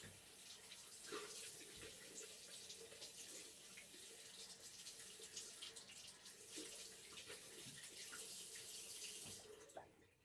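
Water running from a tap into a sink, a steady faint splashing that fades out near the end.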